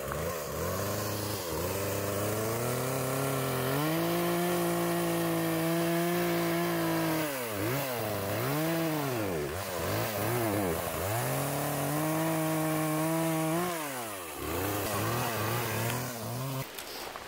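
Chainsaw cutting wood: it revs up and holds at high speed through a cut for a few seconds, drops back and blips between cuts, makes a second sustained cut, then falls to idle and shuts off near the end.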